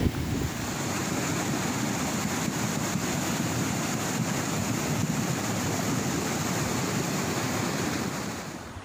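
Floodwater rushing down from the mountain after heavy rain: a steady, loud rush of water that drops off a little near the end.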